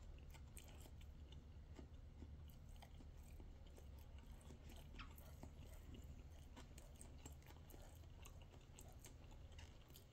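Faint close-up chewing of a mouthful of bread, with many small irregular mouth clicks over a low steady hum.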